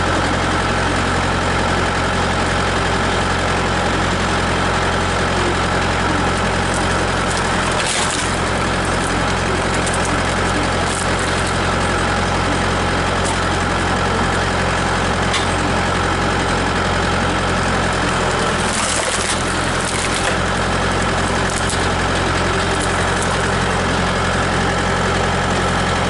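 Tractor engine running steadily at a constant speed. There are two short, sharp noises, about 8 and 19 seconds in.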